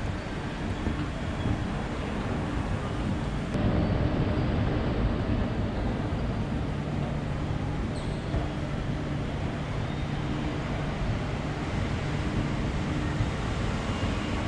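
Steady low rumble and hum of a Boeing 737 passenger cabin, with a click about three and a half seconds in, after which the noise is a little louder.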